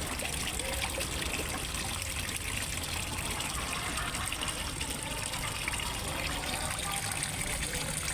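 Small waterfall trickling and splashing steadily into a fish pond.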